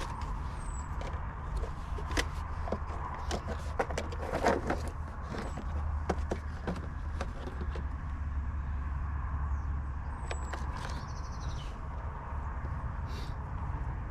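Scattered short knocks and clicks from hands and tools working on a motorhome's front wheel and brake caliper, over a steady low rumble that swells briefly in the middle.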